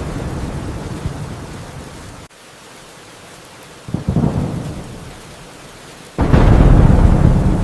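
Thunderstorm: rain with rolling thunder. A low rumble dies off abruptly about two seconds in, leaving quieter rain, then a thunderclap about four seconds in fades away, and the loudest clap breaks about six seconds in and rumbles on.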